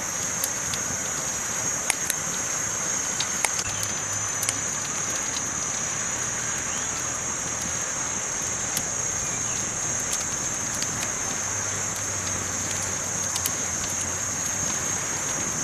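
Campfire burning, a steady hiss broken by sporadic sharp crackles and pops, the loudest about two and three and a half seconds in.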